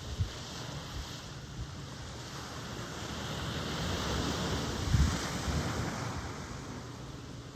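Ocean surf: a wave's wash swells, breaks about five seconds in, then eases off. Low thumps of wind buffet the microphone.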